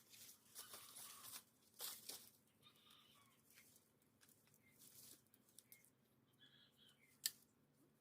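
Faint rustling and crunching of dry leaves and twigs in short bursts, mostly in the first two seconds, with a single sharp click near the end. Faint short chirps sound in the background between.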